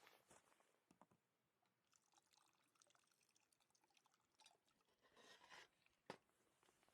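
Near silence with faint scattered crackles and one sharp click about six seconds in.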